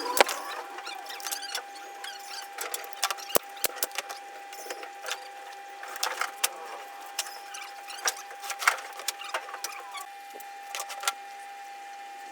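Irregular light clicks and taps over a steady faint hum.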